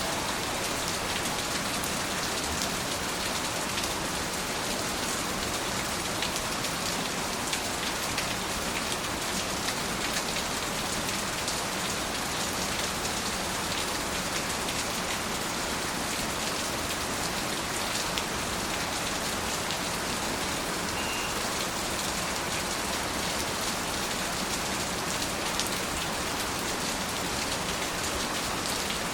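Steady rain falling, an even hiss of many drops with faint individual drop ticks spread through it.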